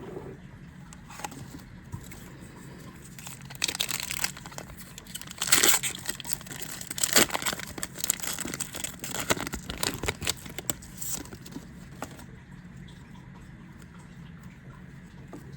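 A foil trading-card booster pack being torn open and its wrapper crinkled, in a run of crackly rustles loudest in the middle, then dying away about three-quarters of the way through.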